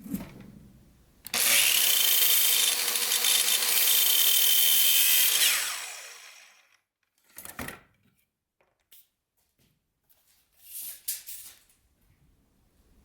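Electric power tool working the wood of a table leg, running at a steady speed for about four seconds, then winding down as the motor coasts to a stop. Two brief, fainter handling noises follow.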